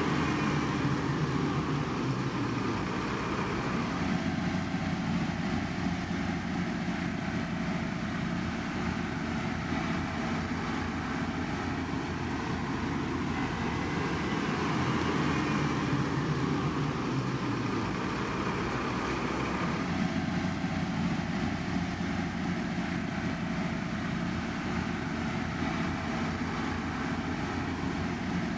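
Diesel engines of heavy road-construction machinery running steadily.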